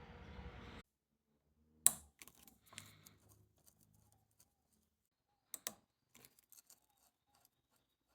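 Scattered sharp clicks and light clinks of small carburetor parts and hand tools being handled. One loud click comes about two seconds in, a close pair of clicks follows about five and a half seconds in, and faint ticks come after.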